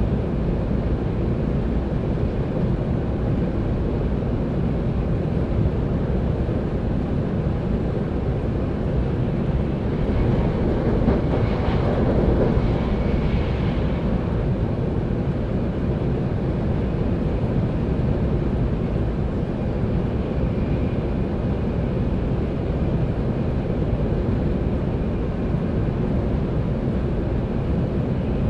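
Steady running noise of a Sanyo Shinkansen Hikari Rail Star train at speed, heard inside the passenger cabin: a constant low rumble that grows a little louder for a few seconds around the middle.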